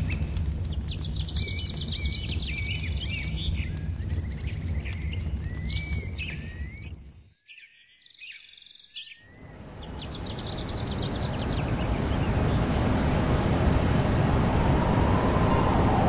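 Birds chirping over a low rumble. The sound fades almost to silence for a couple of seconds with a few last chirps, then a broad rushing noise swells up.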